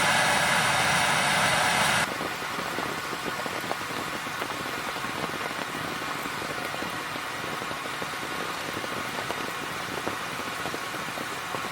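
Rain falling on a tent: a steady hiss scattered with many small drop ticks. A louder, brighter hiss for the first two seconds cuts off suddenly.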